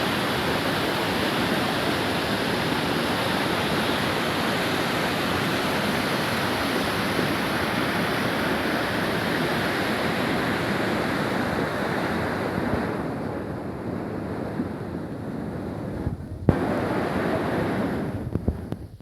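Loud, steady rush of floodwater. It eases about thirteen seconds in, is broken by a sharp click about sixteen and a half seconds in, comes back, and fades out near the end.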